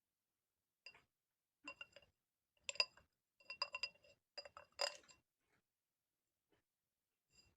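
Light tapping and clinking on a hard object, ASMR-style: a run of short, irregular taps, some in quick little clusters, loudest about three and five seconds in, then stopping.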